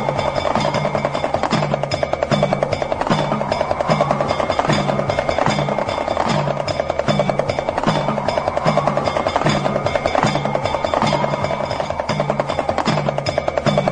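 Damru, the small double-headed rattle drum, struck in a fast continuous rattle over a low drum beat that repeats about every 0.7 s. A sustained tone slowly rises and falls beneath, with steady bell-like ringing above.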